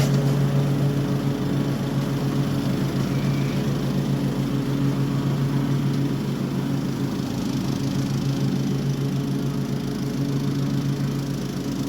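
Toro HDX 30-inch self-propelled mulching mower running steadily while mowing grass, its engine holding a constant pitch.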